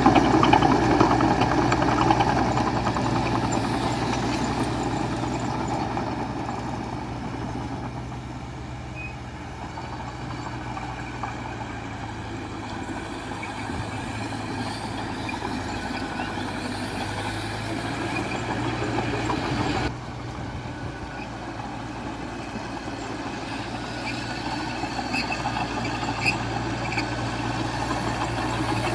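Heavy diesel earthmoving machinery running steadily. The engine is loudest at the start and eases off, drops suddenly about two-thirds of the way in, then builds again near the end.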